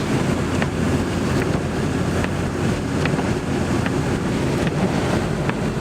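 Cabin noise of a 2002 Kia Sportage driving on a snowy road: steady engine and tyre rumble with heater fan rush, and faint ticks about once a second.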